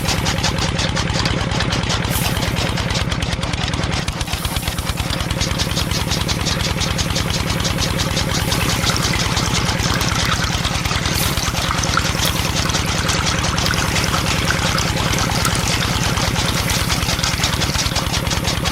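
Small engine running steadily at an even idle, its firing pulses coming in a rapid, regular rhythm.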